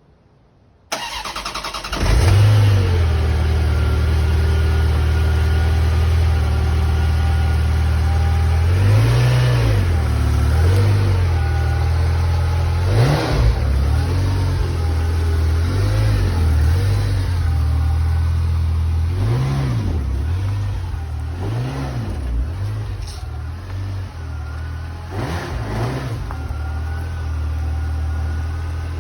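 1989 Ferrari Mondial T's 3.4-litre V8 cold-starting after sitting a week: the starter cranks about a second in, the engine catches about two seconds in and settles into a loud fast idle. Several short throttle blips rise and fall in pitch along the way.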